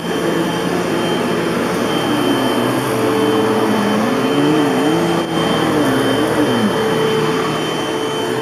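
Hoover Elite Rewind bagless upright vacuum cleaner, with a 12-amp motor, running on carpet with a steady whine. Beneath the whine a lower tone rises and falls as the strong suction grips and drags at the carpet pile.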